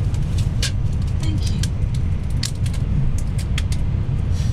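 Cabin noise inside an N700A-series Shinkansen car: a steady low rumble from the train, with scattered short sharp clicks over it.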